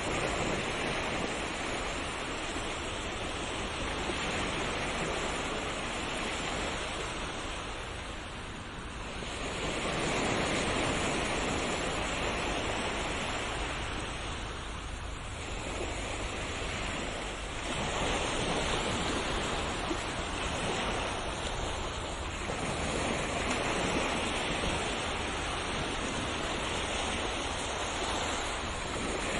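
Ocean waves breaking and washing up the shore as a continuous rush, swelling and easing every several seconds.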